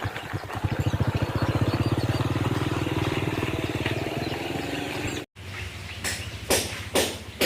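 An engine running with a rapid, even pulse. About five seconds in, the sound breaks off suddenly and is followed by a run of sharp knocks, about two a second, over a low hum.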